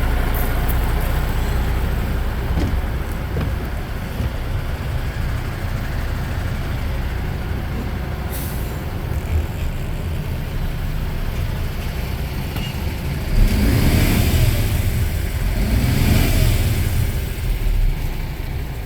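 MAN TGS 18.320 truck's six-cylinder diesel engine running, with a brief hiss of air about eight seconds in. The engine is revved up and let back down twice near the end.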